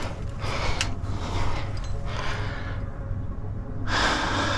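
A climber breathing hard, with three long noisy breaths spaced about a second or two apart, from the exertion of climbing a chimney.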